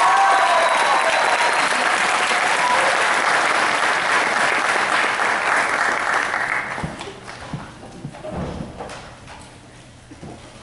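Audience applauding in a hall, with a few whoops in the first couple of seconds. The clapping dies away about seven seconds in, leaving a few scattered knocks and shuffles.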